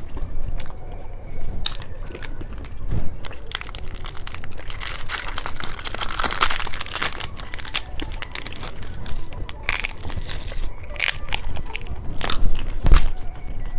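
Close-miked ASMR eating sounds: strawberry chocolate candy being bitten and crunched, a run of sharp crackles and clicks that is densest about five to seven seconds in.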